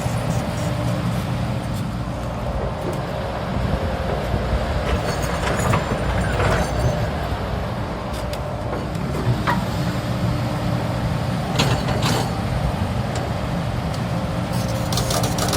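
Hydraulic excavator's diesel engine running steadily under work, with a few short metallic knocks.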